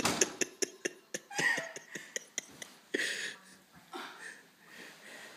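A person's short, breathy exhales or coughs, three or four spaced a second or so apart, with a run of light clicks and knocks in the first second.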